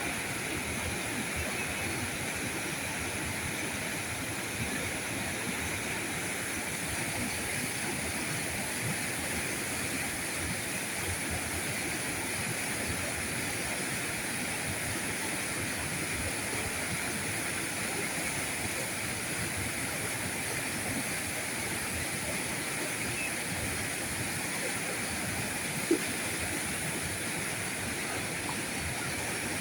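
River current rushing steadily over its bed, a continuous even wash of water. One sharp click stands out near the end.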